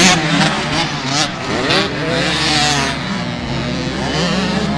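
Several motocross bike engines revving, their pitches rising and falling and overlapping as the bikes race.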